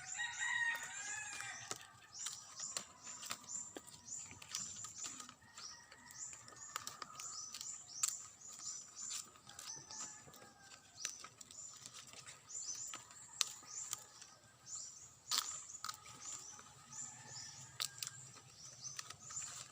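Small birds chirping and twittering, with a louder call in the first couple of seconds, and scattered sharp clicks and crackles mixed in.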